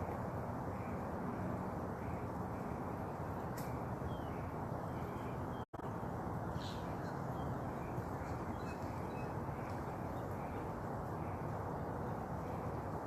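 Steady outdoor noise with a few faint, short bird calls; the sound cuts out for an instant about halfway through.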